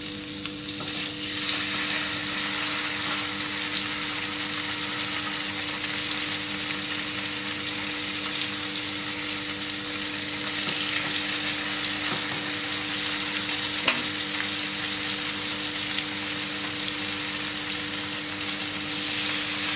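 Marinated chicken tikka skewers sizzling as they fry in foaming butter and oil in a nonstick pan, the sizzle swelling about a second in as the skewers go in. A steady low hum runs underneath, and there is a single click about two-thirds of the way through.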